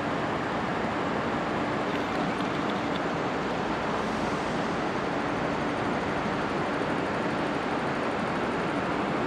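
Steady running noise of a moving vehicle heard from inside, an even rumble and hiss with a faint constant hum.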